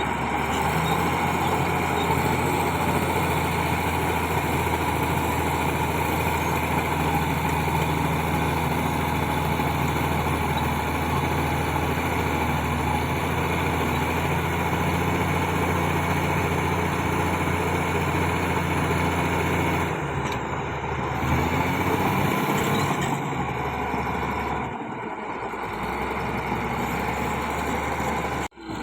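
Bulldozer diesel engine running at a steady pitch under a constant mechanical din. The engine note changes about two-thirds of the way through, then drops away, and the sound breaks off sharply for a moment near the end.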